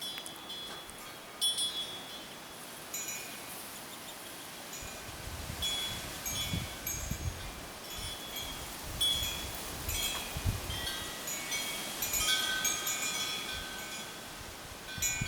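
Metal wind chimes tinkling irregularly, their tubes ringing with high, slowly fading tones. From about five seconds in, gusts of wind buffet the microphone with a low rumble.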